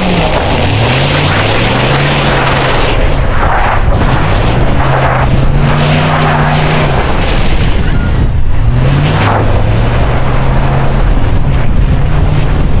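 Ram 1500 pickup's engine revving while the truck slides in snow, the revs climbing and then holding about three times, over a steady rushing noise.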